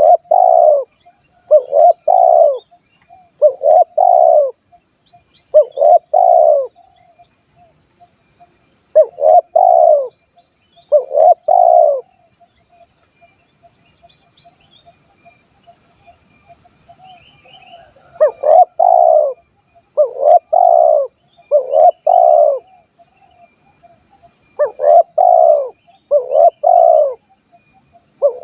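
Spotted dove (tekukur) cooing: short phrases of two or three coos repeated about every two seconds, breaking off for about six seconds midway, then resuming. A steady faint high buzz runs underneath.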